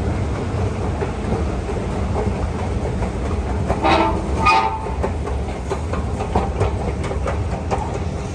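KONE escalator running, with a steady low rumble and a run of clicks from the steps. There is a brief pitched squeal about four seconds in.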